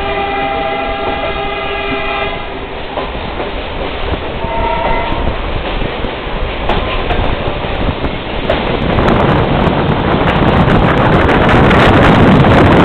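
Train horn sounding for about two seconds, then a shorter second blast, over the rumble and clatter of the moving train. From around two thirds of the way through, the running noise grows much louder.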